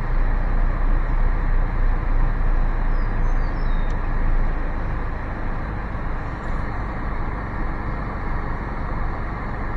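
Steady road and tyre noise of a car driving slowly, heard from inside the cabin, with a few faint high chirps a few seconds in.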